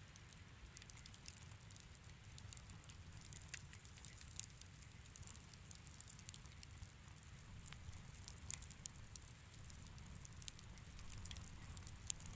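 Wood fire crackling faintly in a fireplace: scattered small pops and snaps over a low steady rumble of the flames.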